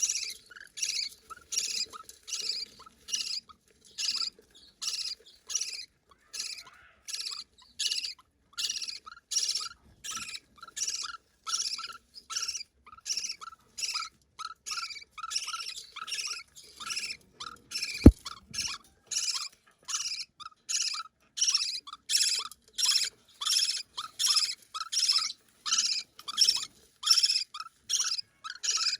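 Budgerigar chick giving repeated begging calls, nearly two a second without a break: a hungry nestling calling to be fed. One sharp click sounds about eighteen seconds in.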